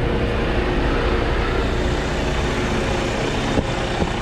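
Concrete mixer truck's diesel engine running steadily, a low rumble with a faint steady hum above it, and a couple of short knocks near the end.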